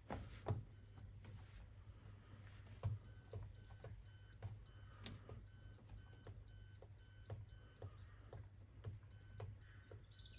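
Hoover washing machine's control panel giving a run of short, high beeps, about two or three a second with brief pauses, as the programme settings are stepped through, with light clicks alongside. A knock comes near the start and another about three seconds in.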